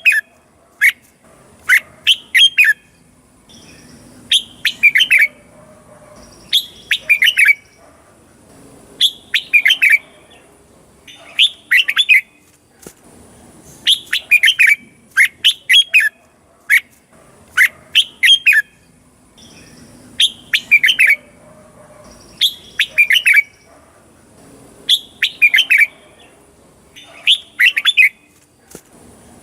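Red-whiskered bulbul singing: short, quick phrases of several clear whistled notes, repeated about every two to two and a half seconds.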